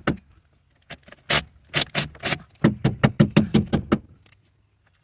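Metal hand tools clicking and clinking in quick, uneven succession: about fifteen sharp metallic clicks between one and four seconds in.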